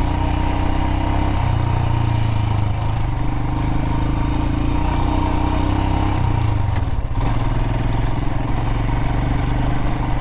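Adventure motorcycle engine running as the bike is ridden on a dirt road, its pitch shifting with the throttle, with a brief dip about seven seconds in.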